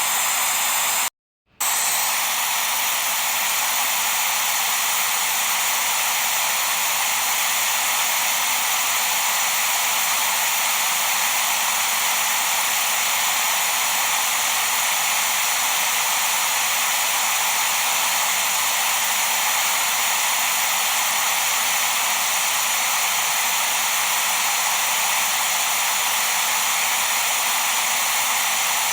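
Steady white-noise hiss, bright with little low end, that cuts out for a split second about a second in and then resumes unchanged.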